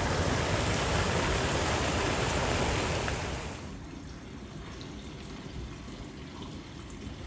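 Steady rush of water, dropping to a quieter rush a little over three seconds in.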